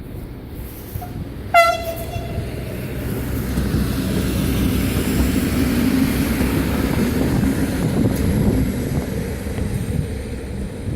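A regional train's horn (Makrofon) gives one short blast about one and a half seconds in, sounded by the driver. The train's running rumble then grows louder and stays steady.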